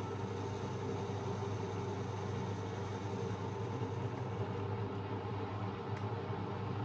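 Beko WMB 71643 PTE front-loading washing machine running with a steady mechanical hum, its brushed motor turning at a constant speed, with one faint click near the end.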